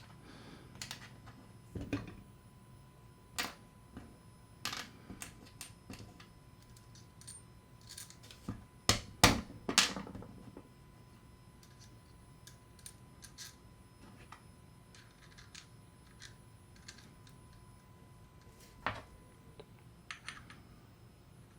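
Small metal and plastic reel parts being handled on a bench: scattered clicks and light knocks, with a cluster of louder knocks about nine to ten seconds in.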